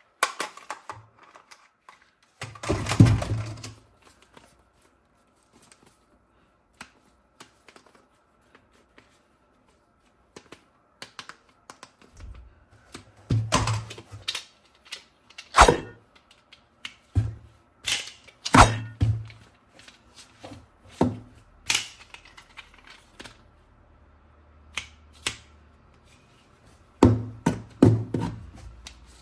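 Toy guns and their packaging being handled: irregular clicks, knocks and a few heavier thunks against a hard surface. A burst comes about three seconds in, then a long lull, and the knocks come frequently again over the second half.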